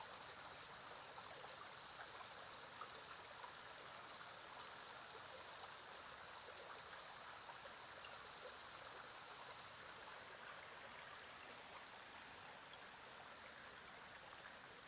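Faint, steady rush of a stream running over rocks.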